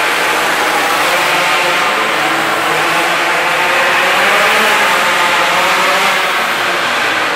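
Minibike's small engine running hard at high revs, its pitch wavering slightly as the throttle changes.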